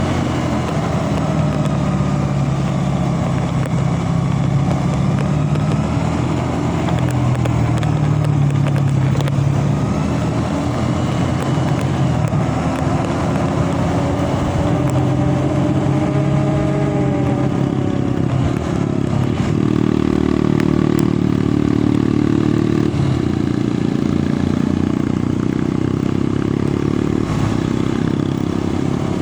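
Motor vehicle engine running on the move, its pitch rising and falling with the throttle over road noise.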